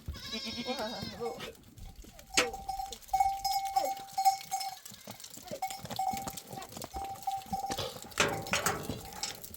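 Livestock bleating at the start. Then a thin steady tone comes and goes for several seconds, with a few sharp knocks.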